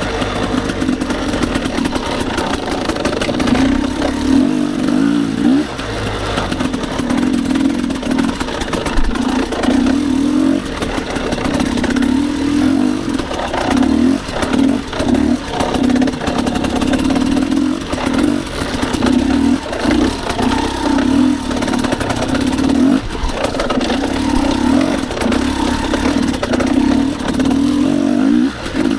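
Dirt bike engine running under constantly changing throttle, revving up and dropping back many times in quick succession.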